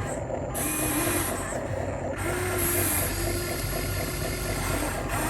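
Small electric motors and plastic gearboxes of radio-controlled construction models whining as they run, the pitch stepping up and down as the controls are worked.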